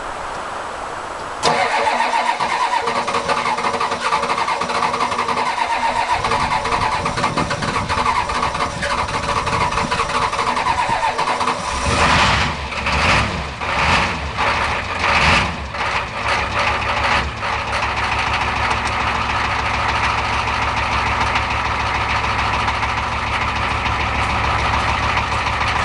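Cold start of a 1985 Ford 6.9 litre IDI diesel V8 that has sat six months unplugged: the starter cranks it for about ten seconds, the engine catches and runs unevenly in surges for a few seconds, then settles into a steady diesel idle. The rough, long start is a sign of the cold engine.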